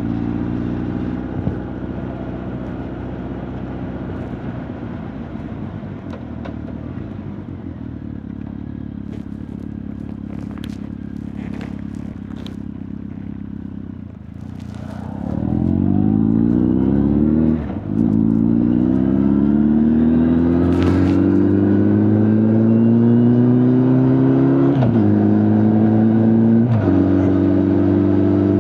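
Honda CB1300 Super Bol d'Or's inline-four engine and exhaust, heard from the rider's back: a steady low engine note for about half the time, then the bike accelerates, pitch rising and louder, with short breaks where it changes up through the gears about three times. A few faint clicks come in the steady part.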